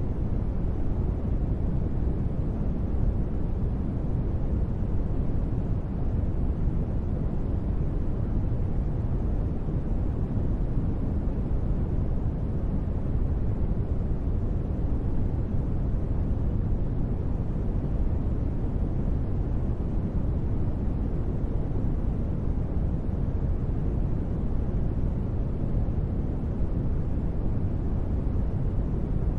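Steady ambient noise bed: a deep, even rush with little hiss and no changes.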